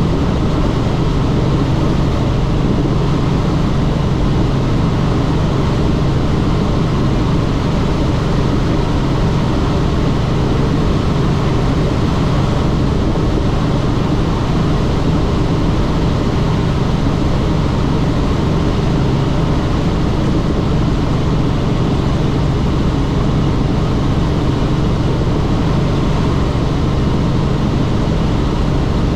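Helicopter in flight: a steady, unchanging drone of engine and rotor.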